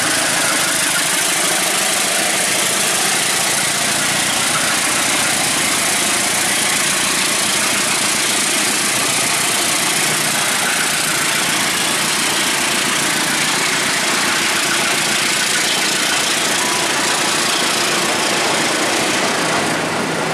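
Passenger train coaches rolling past close by, a steady loud noise of wheels on the rails and running gear.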